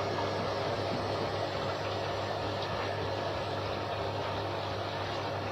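Candy front-loading washing machine running between spin and rinse, giving a steady hum with an even noise.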